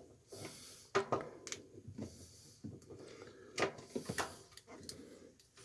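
Irregular clicks, taps and light knocks of hands working a plastic zip tie around a washing machine's lid switch assembly.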